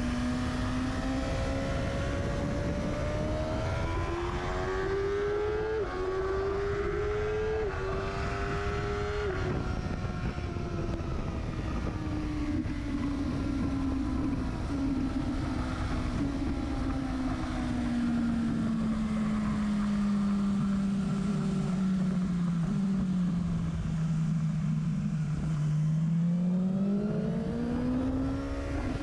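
Sport motorcycle engine and exhaust at speed on a race track, heard close to the silencer. It revs up through three quick upshifts, the pitch climbing and dropping sharply at each gear change. The note then sinks slowly for a long stretch before rising again near the end, with wind rumble throughout.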